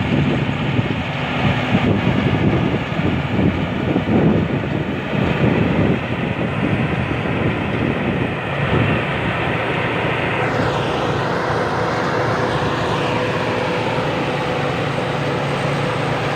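Large Hino diesel engine running under load on a home-built hydraulic farm machine, uneven in the first few seconds and then steady, with a faint falling whine about ten seconds in.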